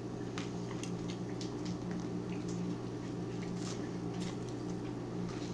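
Quiet eating at a dinner table: scattered faint clicks and soft mouth sounds of chewing and cutlery over a steady low hum.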